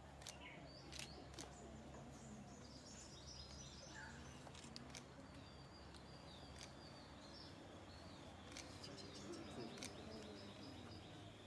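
Faint birdsong: quick high chirps in two runs, one a few seconds in and another near the end, over a low steady background hum with a few scattered soft clicks.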